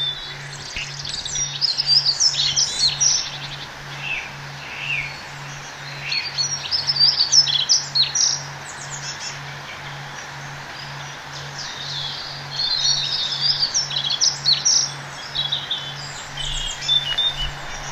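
Several songbirds chirping and singing in quick, overlapping trills and calls, over a faint low hum that pulses evenly about twice a second.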